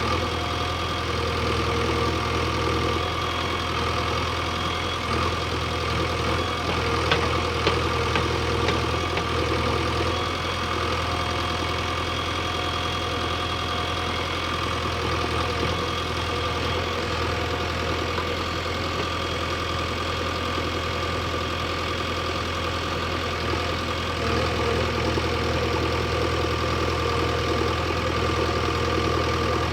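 JCB backhoe loader's diesel engine running steadily, its low drone shifting in level a few times. There are a couple of sharp knocks about seven seconds in.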